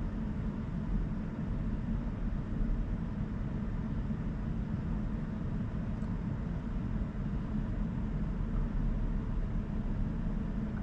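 Steady low road and tyre rumble inside the cabin of a 2023 Rivian R1S Quad Motor electric SUV while driving, with no engine sound.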